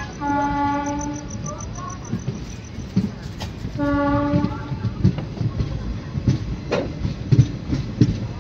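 Train horn sounding two blasts, one of about a second near the start and a shorter one a few seconds later, over the steady running noise of a moving train. In the second half come the knocks of wheels clacking over rail joints.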